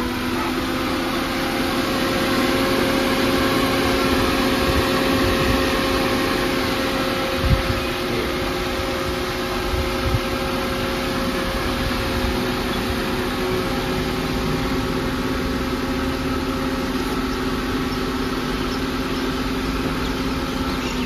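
Car engine idling steadily, with a couple of light knocks near the middle.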